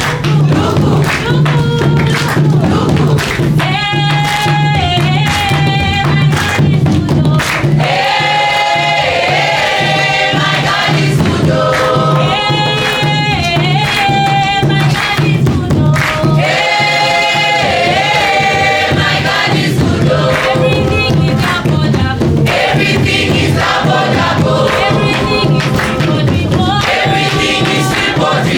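A group singing a gospel-style worship song together over loud music with a steady beat, in phrases of held notes.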